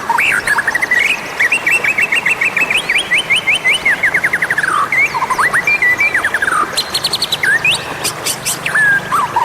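White-rumped shama (murai batu) singing a varied song: quick runs of rapid repeated notes, clear whistled slides and sharp clicks, with no break. It is a calling song of the kind used to lure wild shamas.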